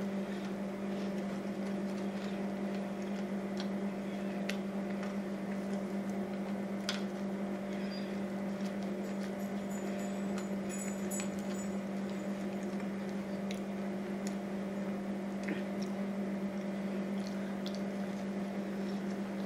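A person chewing french fries and a burger, with soft wet mouth clicks every second or two over a steady low hum.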